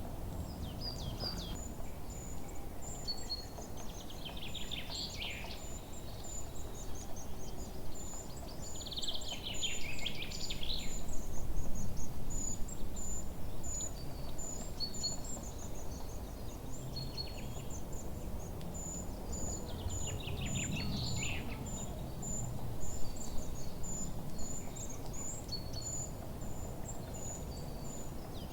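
Forest birdsong: a high, thin note repeated steadily about twice a second, with bursts of quick descending trills every few seconds, over a steady low background rumble.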